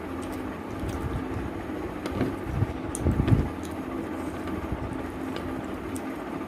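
Close-miked eating sounds: chewing and small mouth clicks over a steady background hum, with a louder stretch of chewing from about two to three and a half seconds in.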